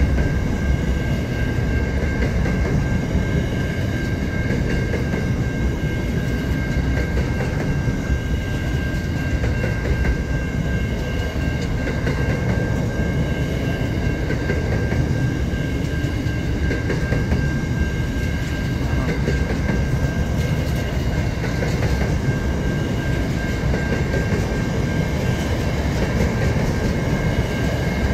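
Freight train wagons rolling steadily past close by: a continuous rumble of steel wheels on the rails, with a steady high whine over it.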